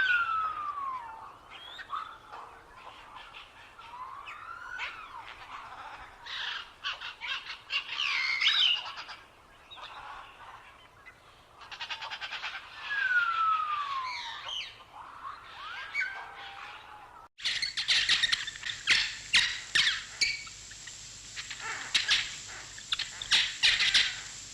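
Birds calling: slurred whistles falling in pitch, mixed with short chirps and trills. About two-thirds of the way in the sound cuts abruptly to a busier chorus of rapid, high chirps.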